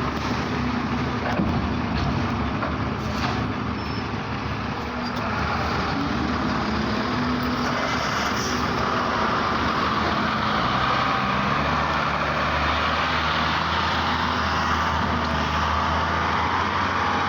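Truck engine running with road noise, a steady drone whose note changes about halfway through.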